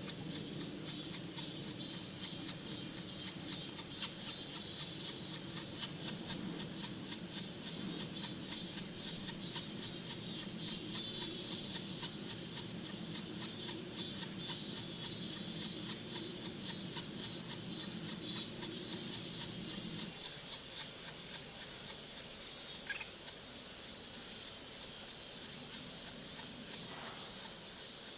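Black woodpecker pecking and chiselling at wood: quick dry taps and scrapes, several a second, over a steady high hiss. A low hum underneath stops about twenty seconds in.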